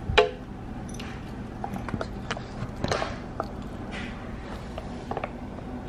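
Doberman puppy walking, its paws and claws making scattered, irregular taps, the sharpest one just after the start.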